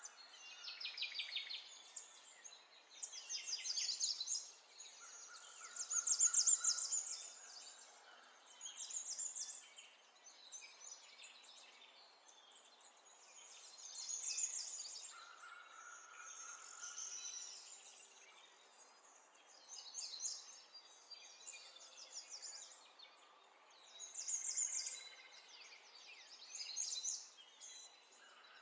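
Small birds chirping and singing: bursts of fast trilled calls come every second or two, with a few short steady whistled notes among them.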